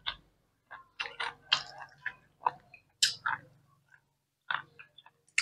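Close-miked chewing: a string of short, irregular crunches and wet mouth clicks from people eating crisp raw cucumber and shredded salad.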